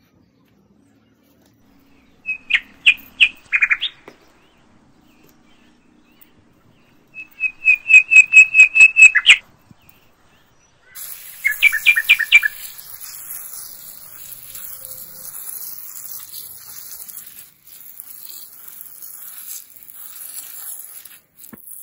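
A bird calls in three quick runs of loud, sharp repeated chirps. Partway through, a steady hiss of water spraying onto the soil of a planter tray begins and runs on, cutting off near the end.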